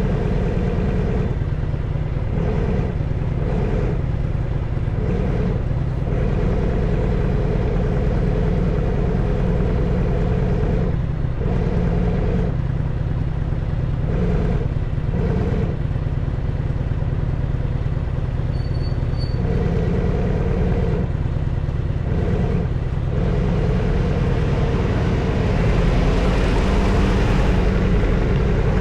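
Harley-Davidson FXSTS's Evolution V-twin engine running on the move, the throttle opening and closing every second or two. Toward the end it pulls harder and gets louder, with more wind noise.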